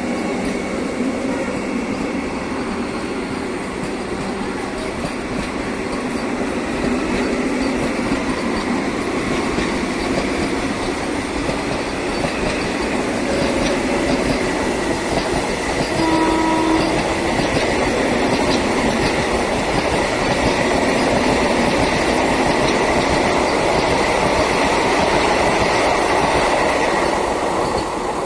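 Vande Bharat Express electric trainset running at speed: a continuous rush of wheels on rail with rail-joint clatter. It gets louder partway through and falls away at the very end.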